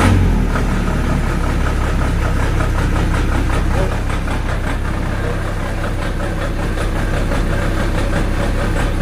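Generator set's engine running steadily just after being started, a low drone with rapid even firing pulses.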